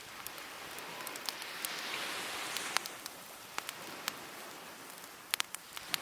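Wood fire crackling with scattered sharp pops, over the hiss of waves washing on the shore; a wave swells about two seconds in and eases off.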